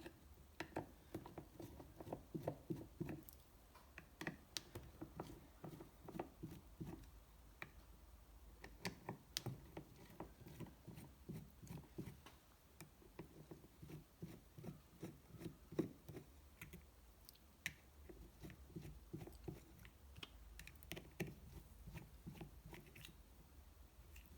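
Screws being backed out of a small engine plate with a hand screwdriver: faint, irregular clicking and ticking of the tool and metal parts, several small clicks a second.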